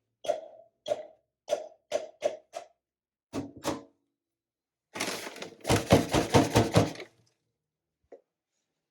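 Hard knocks and taps of coffee-making gear being handled: about six separate knocks, a pair more, then a quick rattling run of heavier knocks lasting about two seconds, and one light tap near the end.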